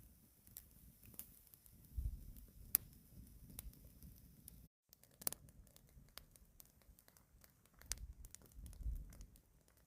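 Wood campfire crackling, with irregular sharp pops and snaps over a low rumble that swells about two seconds in and again near the end.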